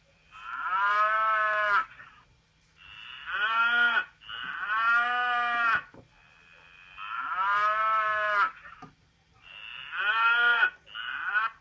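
Sagem my411X mobile phone playing a cow-mooing ringtone through its speaker: six drawn-out moos, one then two, the pattern played twice.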